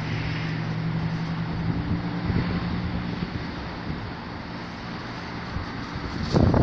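Outdoor traffic noise: a steady vehicle engine hum over an even background hiss, fading out about three and a half seconds in. Wind buffets the microphone near the end.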